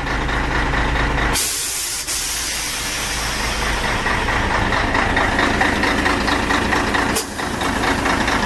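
Loud hiss of compressed air from a Scania 113's front air suspension. It starts suddenly about a second and a half in, runs for several seconds, breaks off briefly near the end and starts again, over the low steady hum of the idling truck.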